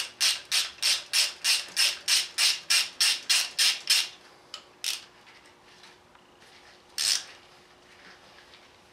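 Hand ratchet backing out a bolt on the engine's gear cover: a quick, even run of rasping ratchet strokes, about four a second, that stops about four seconds in, followed by a couple of short strokes and one more near the end.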